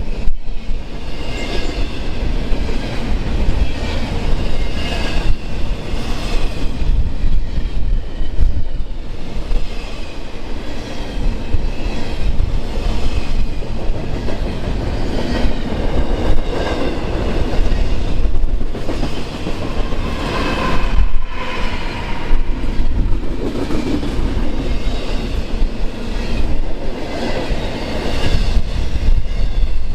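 A train rolling past close by: a steady rumble and clatter of wheels on the rails, with a thin, wavering wheel squeal over it.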